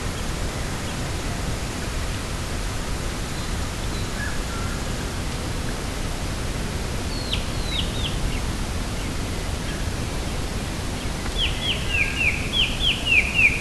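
Steady low rushing outdoor noise, with a small bird calling: three quick downward-sweeping high notes about halfway through, then a fast run of descending chirps, several a second, near the end.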